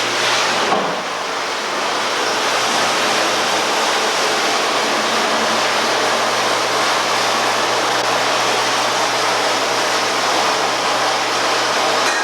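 A dairy milking system's vacuum pump running steadily while hot sanitizing water circulates with a steady rushing through the milk pipeline and teat cups in the wash cycle. There is a brief dip in loudness about a second in.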